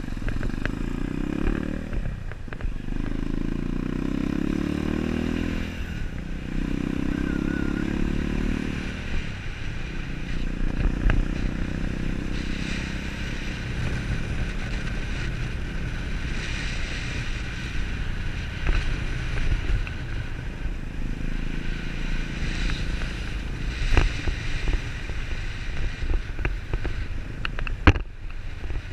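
Motorcycle engine running under way, pulling through three rising revs in the first nine seconds or so. It then runs on steadily, with a few sharp knocks later on.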